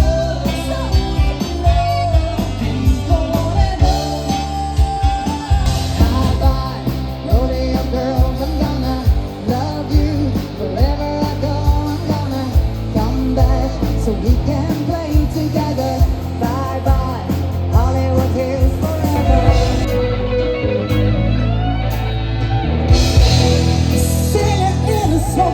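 Live rock band playing a cover song, with electric guitar, bass and drums.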